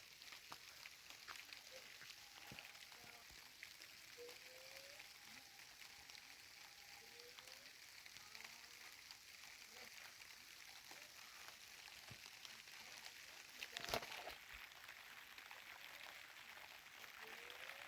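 Faint, steady hiss of rain, with a few faint short rising chirps and a sharp click about fourteen seconds in.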